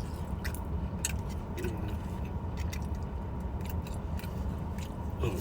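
Scattered small clicks and light handling noises from eating and handling takeout food, over a steady low hum.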